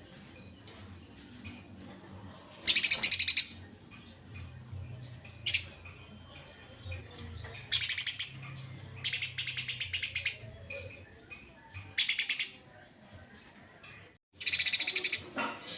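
Eurasian tree sparrow giving its rapid, harsh chattering call in about six short bursts a couple of seconds apart. It is the agitated fighting chatter used as a training recording for songbirds.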